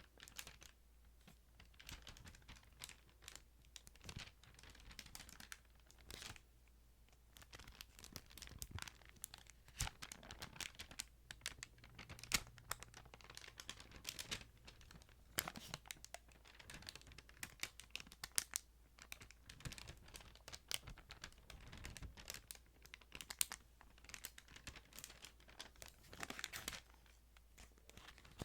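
Thin Bible pages being handled and turned: a continuous run of soft, crisp paper rustling and crinkling, broken by many short clicks.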